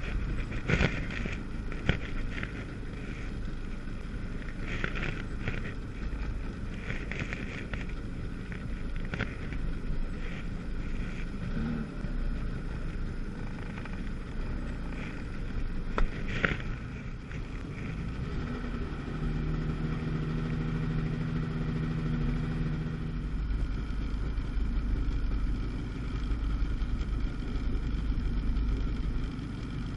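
A personal-watercraft engine running, heard under wind noise on the microphone. For a few seconds about two-thirds of the way through, a steady engine tone stands out.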